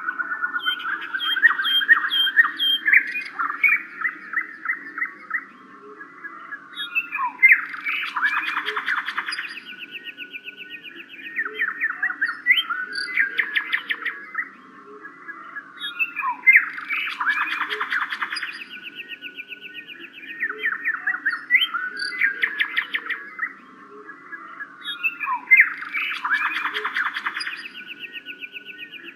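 Small birds chirping in fast, dense runs of short calls, in bouts that swell and fade about every nine seconds, over a faint steady low hum.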